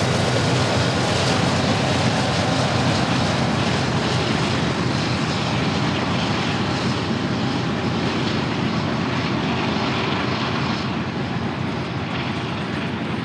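Diesel locomotives of a freight train working under heavy throttle as the train pulls away from a stop, a loud steady engine sound that slowly fades.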